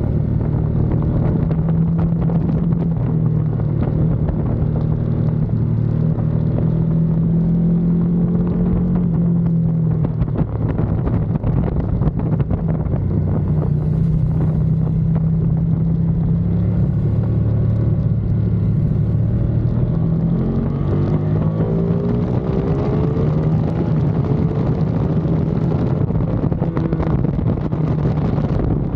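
Ducati Panigale V2's V-twin engine running hard on a track lap. The note dips and turns ragged about ten seconds in, then climbs steadily in pitch from about twenty seconds as the bike accelerates.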